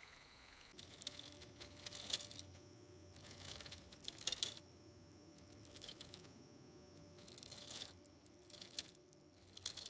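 Faint rustling, crackling noise in irregular bursts with small clicks, starting about a second in and flaring up several times.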